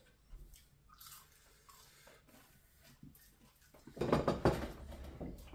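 People chewing and biting into crisp fried chicken and fries close to the microphone. It is faint at first, with a louder stretch of crunching about four seconds in.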